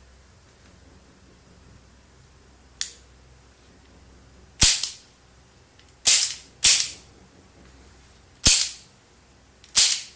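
Nagant-style 6 mm CO2 airsoft revolver firing five sharp pops, spaced one to two seconds apart, after a single fainter click near the third second.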